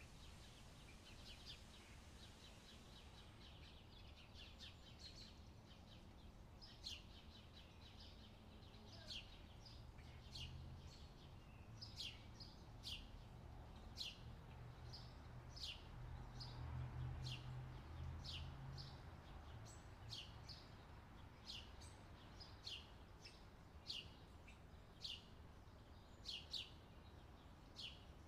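Faint, short chirps of a small bird, repeated one or two a second and quicker in the first few seconds, over a low hum.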